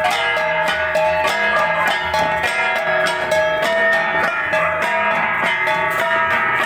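An ensemble of Kalinga gangsa, flat bronze gongs, beaten together in a rapid, even interlocking rhythm, their ringing tones overlapping continuously.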